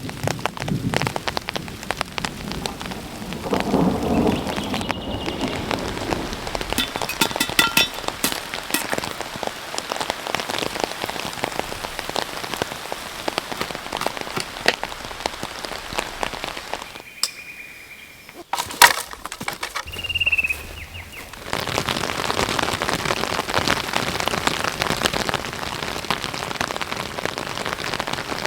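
Steady rain falling, with many sharp drop impacts on a nearby surface, across several edited shots. There is a single loud knock about two-thirds of the way through, and a few brief high tones.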